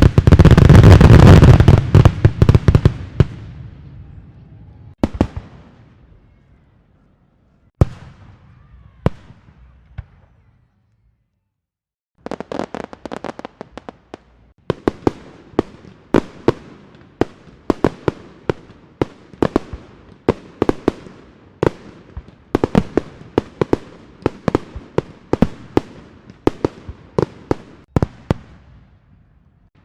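Fireworks: a loud deep boom with crackling opens and fades away over a few seconds, followed by a few single sharp bangs. After a short silence, a long string of firecrackers goes off in rapid, irregular cracks, several a second.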